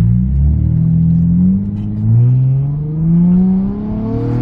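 Car engine accelerating hard, its note climbing steadily, dropping back once about two seconds in as it shifts up, then climbing again.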